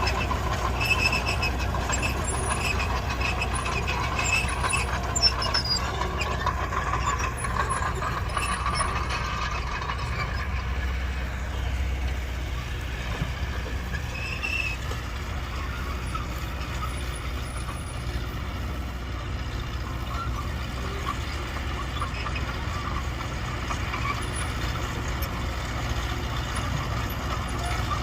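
Heavy earthmoving machinery working, its diesel engine rumbling steadily, with higher mechanical tones on top that fade after about ten seconds.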